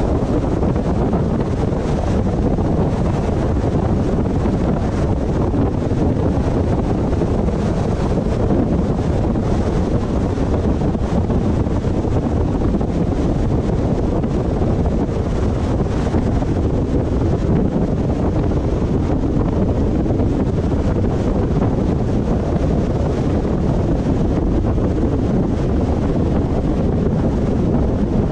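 Steady road and wind noise from a car driving along, deep and even throughout with no distinct events.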